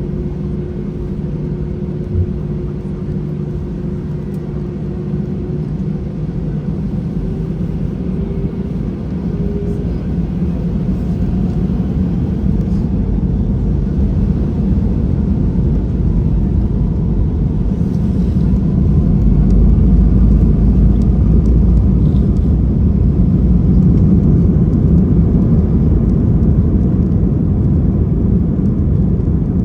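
Airbus A320 cabin rumble heard from a window seat on the ground: a steady low rumble of engines and airframe that grows louder over several seconds about halfway through, then holds steady.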